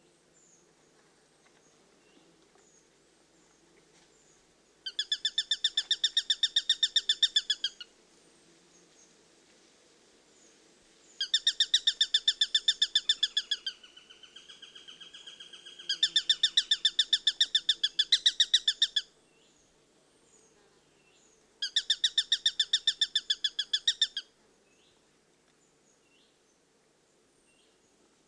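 Eurasian sparrowhawk giving its rapid chattering call series, four bouts of fast, evenly repeated high notes, each lasting two to three seconds. A quieter, lower call comes in the middle, between the second and third bouts.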